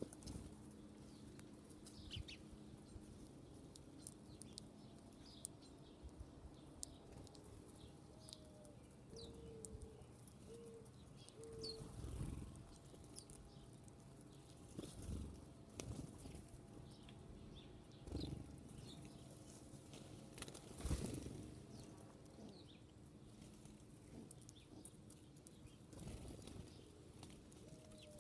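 Faint bird sounds: a dove coos a short low phrase, one note then three shorter ones, about a third of the way in and starts again at the very end, while small birds give brief high chirps. Several soft thumps and rustles come and go, the loudest about three quarters of the way in.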